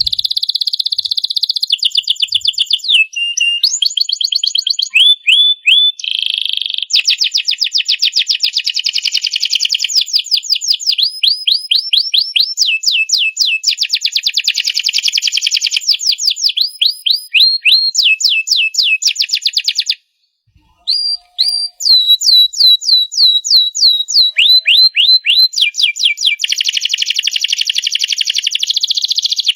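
Domestic canary singing a long, continuous song of fast trills and rolling runs of repeated high notes, broken by one short pause about two-thirds of the way through.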